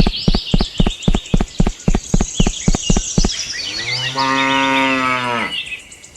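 A cow mooing once, a long low call of nearly two seconds that drops slightly as it ends. It is preceded by a quick run of sharp knocks, about five a second.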